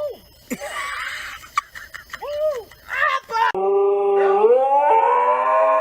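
A dog vocalising: a few short whining calls that rise and fall, then from about three and a half seconds in a long, loud howl that climbs in pitch and holds.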